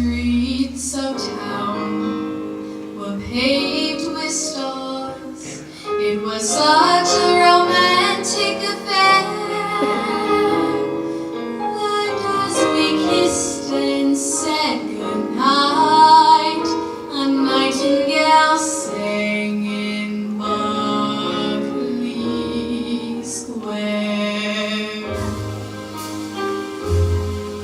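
Female singing of a slow ballad with instrumental accompaniment, the sung notes held and gliding between pitches.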